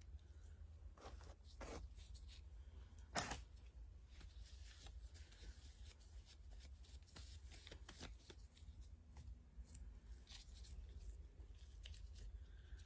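Faint handling noises: scattered light clicks and rustles, with one louder knock about three seconds in, over a low steady hum.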